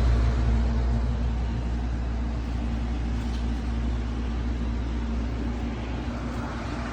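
Portable air conditioner running: a steady low hum with a rush of fan air, easing slightly quieter over the few seconds.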